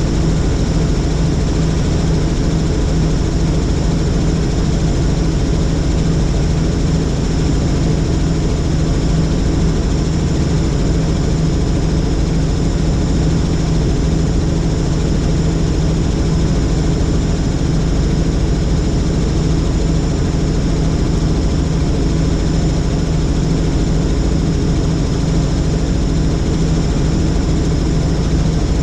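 Helicopter engine and rotor running steadily in flight: a loud, constant drone with a strong low hum that does not change.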